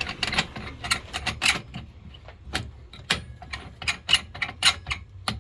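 Irregular clicks, taps and light knocks of a drilled pen blank and drill-press fittings being handled, some sharper than others, after the drill motor has stopped.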